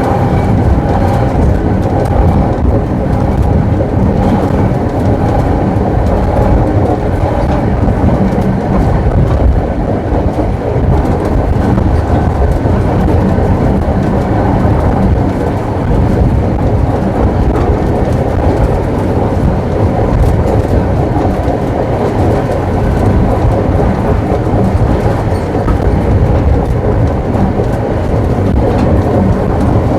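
Tram running on rails: a steady rumble and rattle of the car and its wheels.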